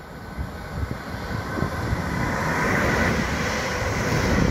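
Passenger train approaching along the line and passing close below, its running and wheel-on-rail noise growing steadily louder to a peak near the end. Wind buffets the microphone in uneven gusts throughout.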